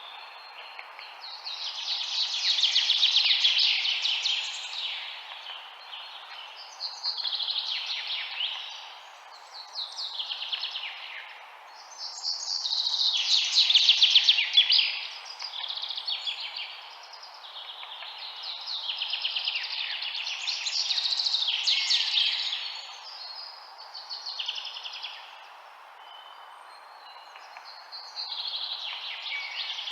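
Birds chirping in bursts of rapid, high song lasting two or three seconds each, coming every few seconds, over a steady background hiss.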